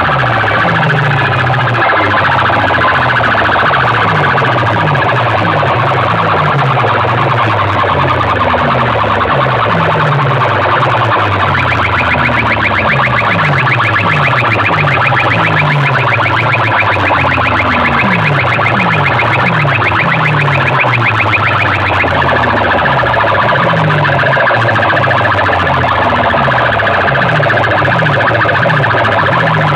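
DJ sound-system music blasted through large speaker rigs at full volume: fast repeating bass notes under a warbling, siren-like electronic sound. About twelve seconds in, a higher rapid trill joins, and it drops out about ten seconds later.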